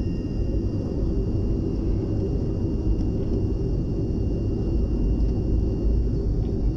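British Aerospace BAe 146-200 jet's four Lycoming ALF 502 turbofan engines running, heard as a steady low rumble, with a faint high whine that stops near the end.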